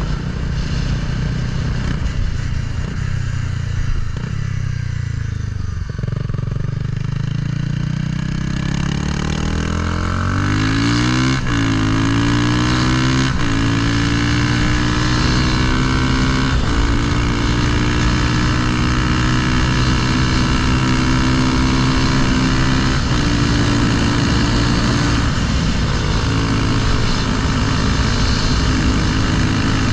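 Honda Grom's swapped-in CBR300R single-cylinder engine, breathing through an aftermarket header and Yoshimura can, accelerating and shifting up several times, the pitch dropping back at each shift, then running at a steady cruise.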